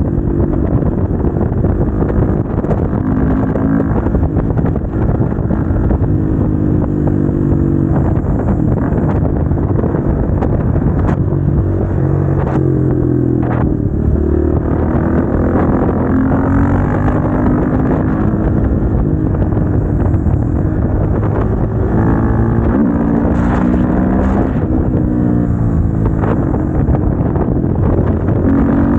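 Motorcycle engine recorded onboard while riding, its pitch climbing and dropping back again and again as the bike accelerates, shifts gear and slows.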